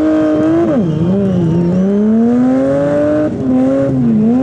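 Demolition derby car engines revving hard, the pitch climbing and falling as the throttle is worked, with a sharp drop in revs about a second in.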